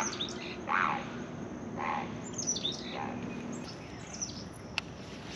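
Songbirds chirping and calling, short high descending notes mixed with lower calls about once a second, over a faint low hum that fades out partway through; a single sharp tick near the end.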